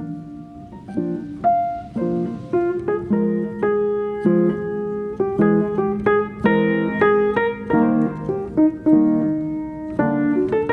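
Piano music: a melody over chords, with notes struck one after another and left to ring.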